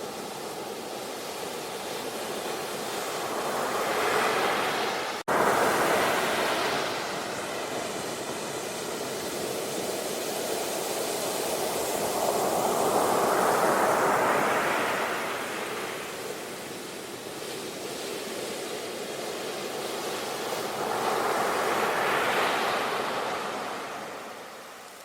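Ocean surf: waves breaking and washing up the beach in slow swells, three big surges rising and falling, with a split-second dropout about five seconds in.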